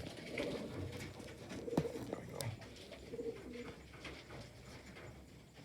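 Racing pigeon cocks cooing in a loft: several low coos in the first few seconds, growing fainter toward the end.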